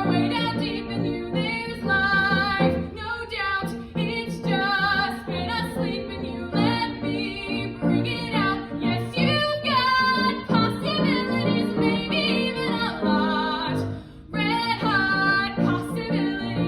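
A young woman singing a musical theatre song in a trained voice with vibrato, with instrumental accompaniment; a short break in the singing near the end.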